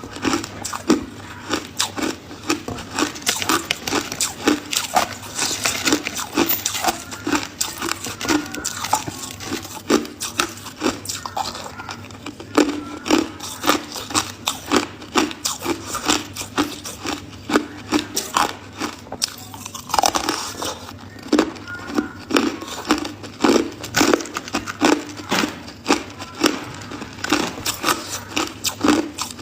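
Person biting and chewing ice: a steady run of crisp crunches, about two to three a second, with a short lull about twenty seconds in and then a fresh hard bite.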